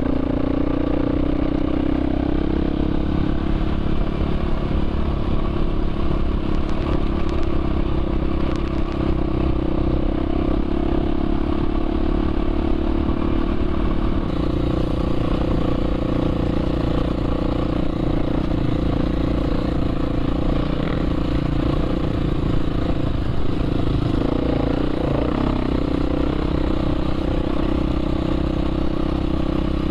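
Dirt bike engine running at a steady, even pace while riding.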